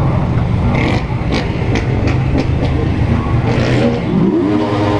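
Motorcycle engines running under way: a steady low engine note, then about three and a half seconds in an engine revs up and holds a higher steady pitch.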